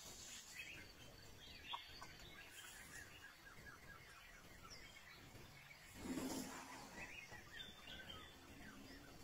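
Faint birds chirping repeatedly in the background, with a brief louder burst of noise about six seconds in.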